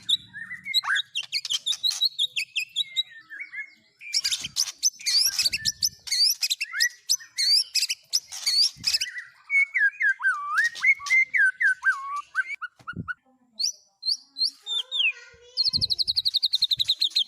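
Songbird singing a varied, continuous song of sharp chirps and slurred whistles, with a very fast trill near the end.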